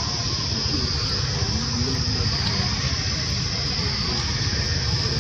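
Steady outdoor background: a constant high-pitched insect drone over a low rumble, with no clear event standing out.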